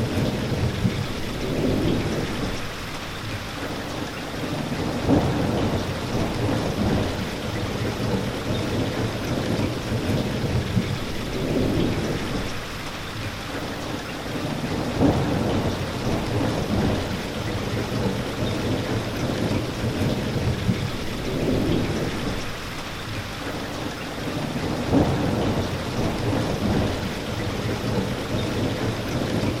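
Steady heavy rain with low rumbles of thunder that swell and fade about every ten seconds.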